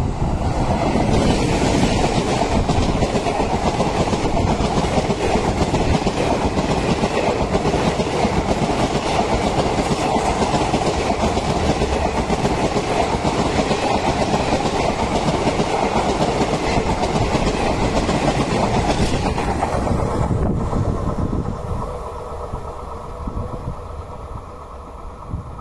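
Passenger train hauled by an electric locomotive passing close at speed: a loud steady rush of wheels on the rails as the coaches go by. It drops off sharply about twenty seconds in, as the last coach passes and the train runs away.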